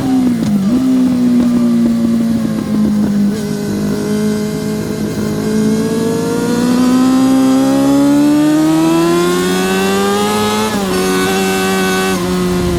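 Yamaha R6 (RJ03) motorcycle's 600cc inline-four engine at racing revs: the pitch falls in the first second as it slows, holds lower for a few seconds, then climbs steadily for about four seconds under hard acceleration before dropping sharply about eleven seconds in at a gear change.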